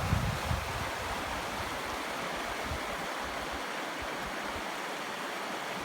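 River water running with a steady rush. A few low rumbles of wind on the microphone come in the first half second.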